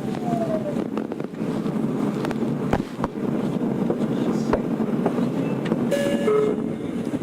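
Tokyo Metro 02 series subway car with its IGBT inverter, heard from inside as it runs in toward a station. There is a steady rumble with scattered rail clacks and a short falling whine at the start. A few short electronic beeping tones come near the end.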